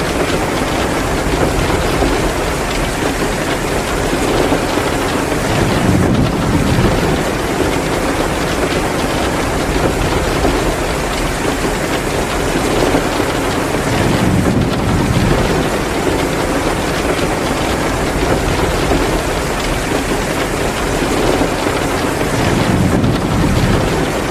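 Heavy downpour of rain: a steady, dense hiss with a low swell about every eight seconds.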